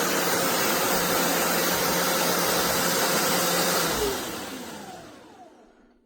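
BISSELL Revolution HydroSteam Pet carpet cleaner's suction motor running with a steady rushing whine. About four seconds in it is switched off, and it winds down with a falling pitch, fading out.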